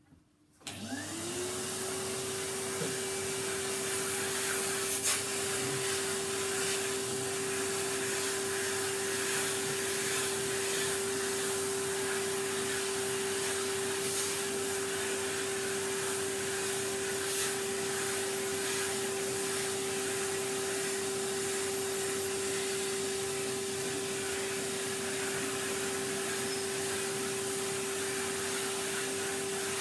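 A vacuum cleaner is switched on about half a second in. Its motor whine rises quickly to a steady pitch, then it runs evenly, with a few faint knocks as it is used.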